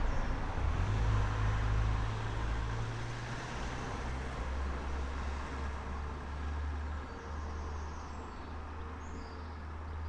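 Street traffic: a passing vehicle fades away over the first couple of seconds, leaving a steady low engine rumble. A few faint bird chirps sound near the end.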